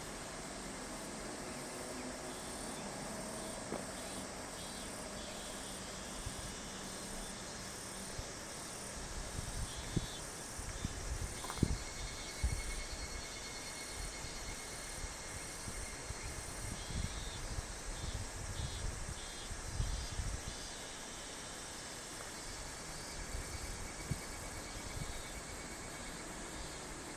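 Summer insects calling: a steady chorus of pulsing high-pitched trills over a continuous hiss. Low, irregular rumbles come and go from about nine seconds in until about twenty-one seconds in.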